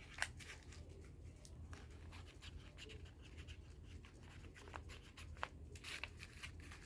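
Faint, irregular scratching and light taps of paper being handled during craft work, over a low steady room hum.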